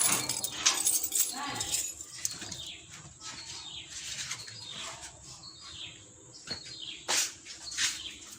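Birds chirping and calling: a busy run of quick, high, downward-sweeping chirps, louder in the first couple of seconds. A sharp click sounds once a little after seven seconds in.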